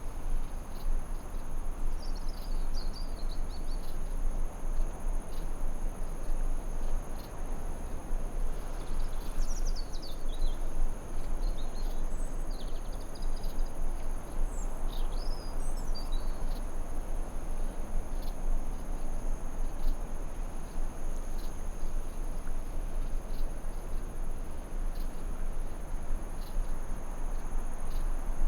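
Forest ambience: a steady high-pitched insect chorus of crickets over a constant low rushing noise, with a small bird twittering briefly a couple of seconds in and again in short phrases around the middle.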